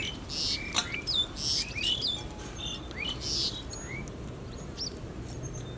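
Small birds chirping: short calls that sweep up and down, coming every half second or so, with a few sharp ticks among them.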